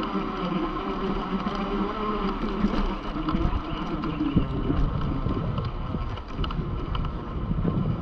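UBCO electric motorbike's hub motors whining steadily while riding. Wind starts buffeting the microphone about three seconds in.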